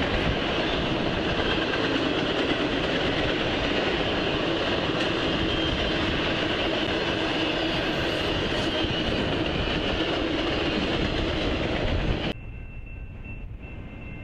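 Intermodal freight train rolling past at speed: a steady rumble and clatter of the cars' wheels on the rails. About twelve seconds in it cuts off abruptly to a much quieter steady background with a faint high hum.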